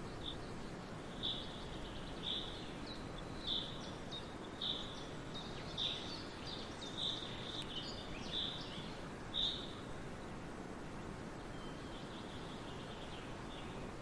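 A bird repeating one short, high call about once a second, nine or so times, falling silent about two-thirds of the way through, over a steady background hiss.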